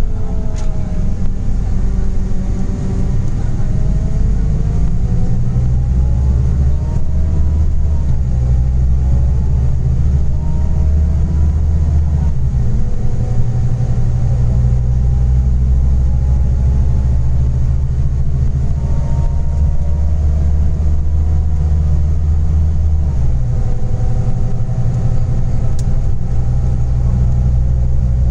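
Scania Interlink coach's natural-gas (CNG) engine running under way. Its pitch climbs slowly as it accelerates and drops back several times, with changes in the low drone at about 6, 12 and 23 seconds in.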